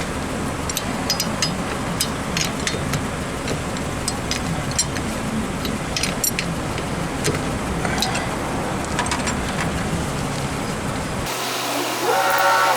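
Lug nuts being loosened and taken off a car wheel with a hand wrench: scattered sharp metallic clicks and clinks over a steady low hum. Near the end the background hum cuts off suddenly and a brief pitched sound follows.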